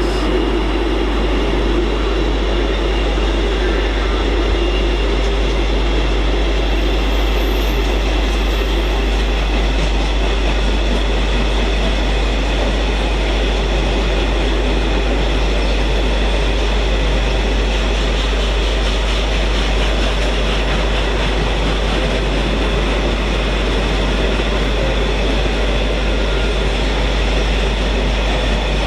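DB Cargo freight train, double-headed by two Class 90 electric locomotives, passing close by. Its wagons make a steady, loud rumble of wheels on rail that does not let up.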